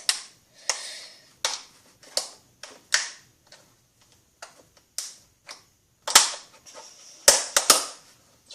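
Homemade slime being squeezed and pressed into a plastic to-go container: irregular sharp snaps and pops, some followed by a short wet hiss, coming thicker about six seconds in.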